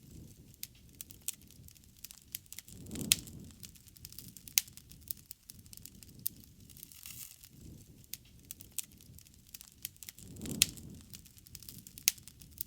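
Wood fire burning, with irregular crackles and a few sharp pops over a low rumble of flames that swells twice.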